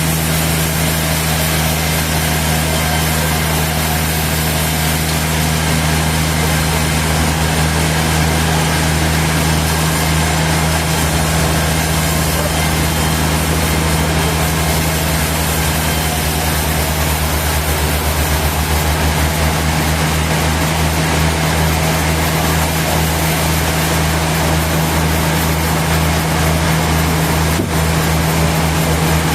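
Engine running steadily at idle, a deep even hum. From about halfway through, its low end takes on a fast, even pulsing.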